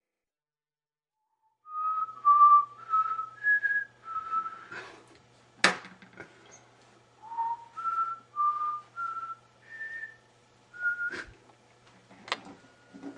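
A person whistling a slow tune, one held note after another. A few sharp clicks break in, the loudest about halfway through.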